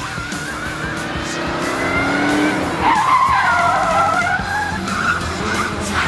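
Tires squealing in a burnout from a 1973 Ford Thunderbird with a 460 V8. The engine rises in pitch, then a wavering screech comes in loudest about three seconds in.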